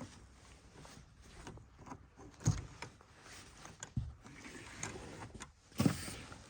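Three dull knocks or thumps, the last the loudest, over faint handling noise.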